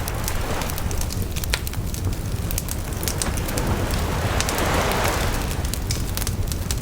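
Campfire crackling with scattered sharp pops, over the steady wash of sea waves; one wave swells in and breaks about four to five seconds in.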